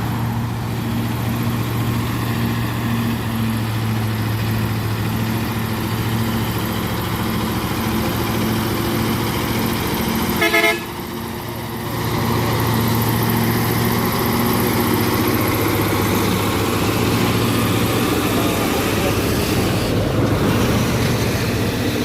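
Heavy truck engine running steadily as it pulls up a steep hill, with one short vehicle horn toot about halfway through.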